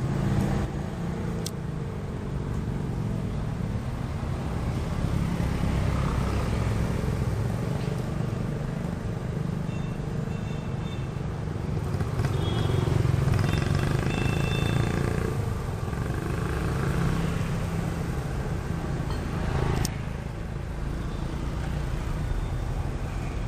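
Honda 70cc single-cylinder four-stroke motorcycle engine running steadily.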